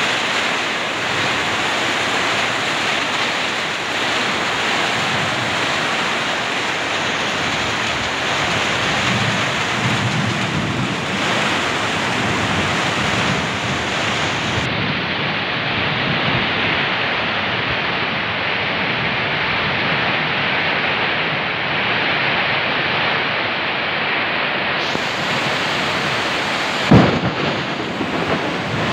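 Torrential rain pouring down on corrugated tin roofs and thrashing foliage in a windy downpour: a loud steady hiss. A single short loud thump stands out near the end.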